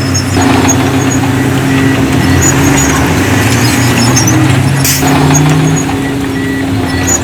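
Heavy diesel engine of earthmoving machinery running steadily under load, its pitch shifting slightly, with faint high squeaks and one sharp click about five seconds in.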